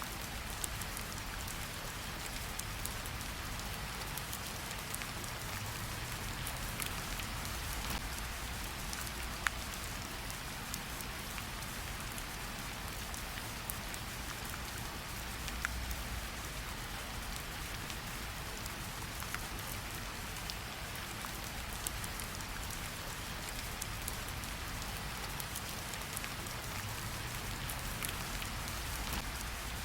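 Gentle rain falling on tree leaves: a steady, even hiss of rain, with scattered single drips ticking out louder here and there.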